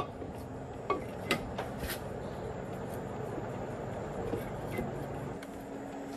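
Several sharp metal clinks and knocks in the first two seconds of handling tractor gearbox parts or tools, over a steady low background rumble.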